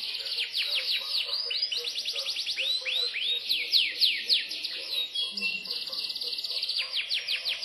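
Yorkshire canary singing a continuous song of fast trills made of rapid, repeated downward-sweeping notes, with a few slower, louder sweeps around the middle.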